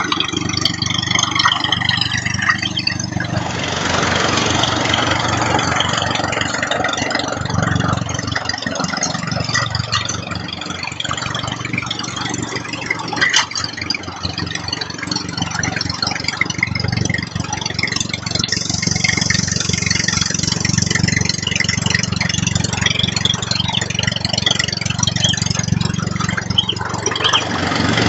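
A motor running steadily, its pitch sagging briefly about eight seconds in and again near the end.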